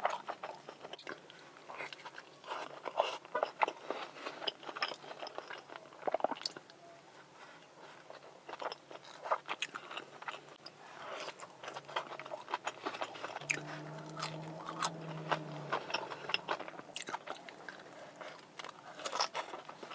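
Close-miked eating of a chicken burger: crunchy bites and chewing, with many sharp crunches throughout. A low steady hum runs for about two seconds a little past the middle.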